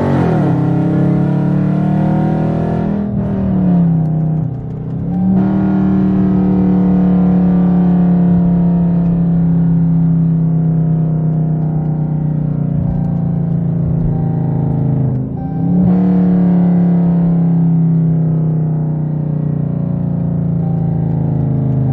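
Straight-piped 5.7 L Hemi V8 of a 2017 Dodge Charger R/T under hard acceleration, heard from inside the cabin with the windows up. The exhaust note dips sharply twice, about 3 and 15 seconds in, then picks up again.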